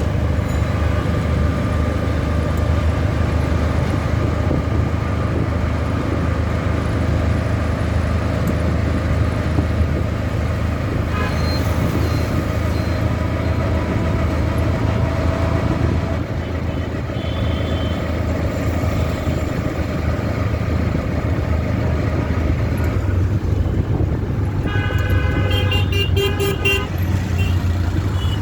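Steady low rumble of a passing vehicle in city surroundings, with a horn-like toot and a rapid series of beeps near the end.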